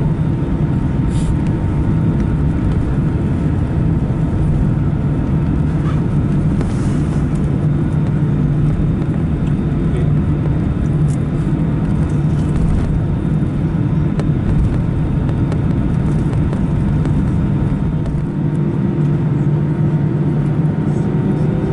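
Steady low rumble of aircraft cabin noise inside an Airbus A319, with a faint tone coming in near the end.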